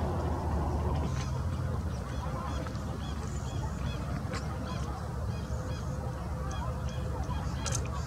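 Birds giving short calls over and over, several a second, above a steady low rumble, with two sharp clicks near the end.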